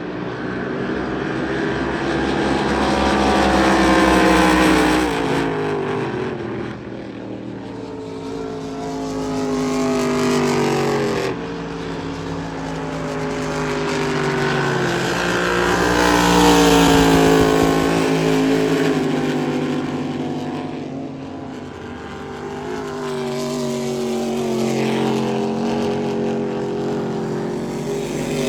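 Several racing boat engines running hard, their pitch sliding up and down as the boats pass, growing louder and fading away again, loudest about four and sixteen seconds in.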